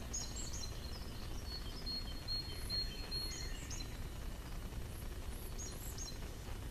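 Small songbirds chirping in short, high notes, with thin high whistles repeated throughout, over a steady low background rumble.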